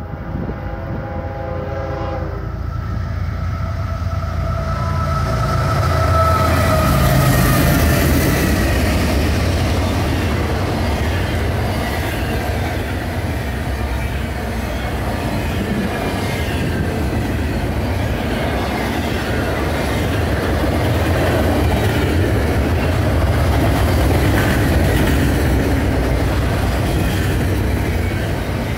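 A diesel freight train's horn sounds briefly as the train approaches. Then the GE diesel locomotives pass, loudest at about six to eight seconds in, followed by the steady rumble and wheel clatter of double-stack container cars rolling by.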